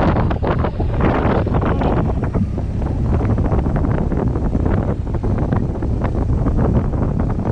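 Wind buffeting the microphone at riding speed over the low, steady drone of a BMW R1200GS motorcycle's engine and road noise.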